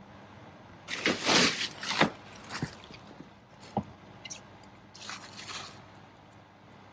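Bursts of rustling and scraping with a few sharp knocks, typical of sailcloth and rigging being handled on deck while the jib is raised.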